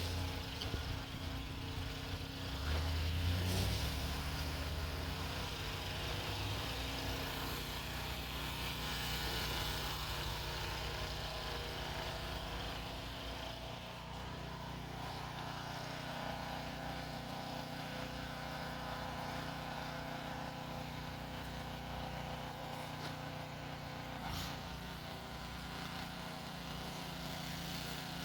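An engine running steadily at an even speed, with a heavier low rumble in the first few seconds.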